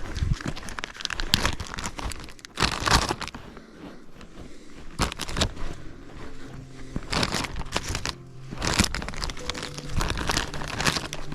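Plastic zip-top bag crinkling in irregular bursts as it is opened and handled.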